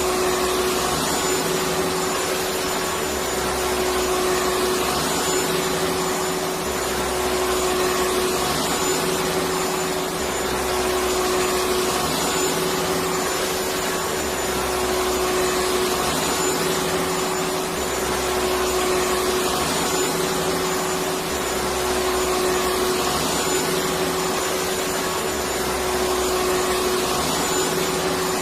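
Electric vacuum cleaner running steadily: a constant motor hum and rushing air. The low rumble swells and eases slightly about every four seconds.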